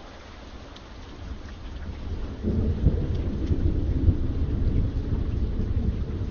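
Steady rain with a deep rumble of thunder that swells over the first couple of seconds and then rolls on loudly.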